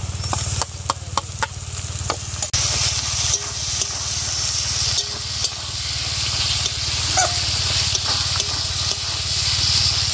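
Onions and ginger-garlic paste sizzling in hot oil in a metal wok, with a steel ladle clicking and scraping against the pan in the first couple of seconds. About two and a half seconds in, the sizzle turns louder and hissier. A steady low hum runs underneath.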